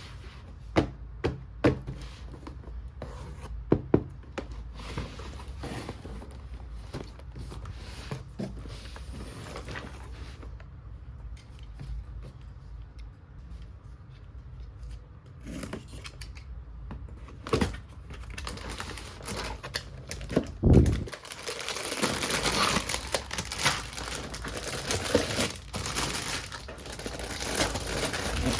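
A toy kitchen set being unpacked by hand: scattered clicks and taps of plastic pieces and packaging, a heavy thump about three-quarters of the way through, then steady crinkling and tearing of plastic wrapping.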